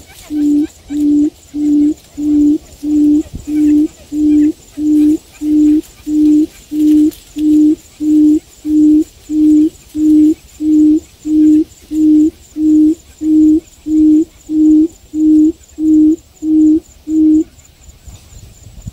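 Quail call: a single low hoot repeated at an even pace, nearly two a second, stopping shortly before the end.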